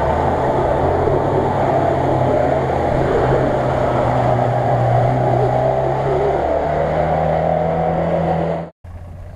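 Off-road 4x4 engine running steadily under load as the vehicle drives through water and mud, with a wash of splashing; the engine note steps up slightly about two-thirds of the way through. The sound cuts off abruptly near the end and is followed by a much quieter stretch.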